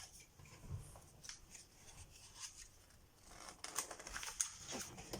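Faint rustling and handling of paper book pages being turned, busier in the second half.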